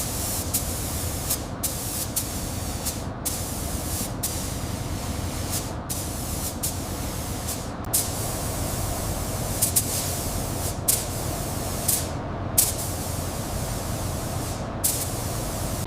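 Steady hissing spray noise over a low rumble, its hiss cutting out briefly every one to three seconds, with a few sharp clicks.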